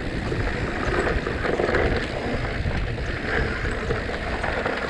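Wind rushing over the microphone, with the steady rumble and rattle of a mountain bike rolling fast down a dirt trail.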